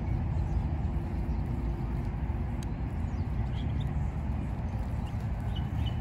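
A few faint, short bird chirps over a steady low outdoor rumble.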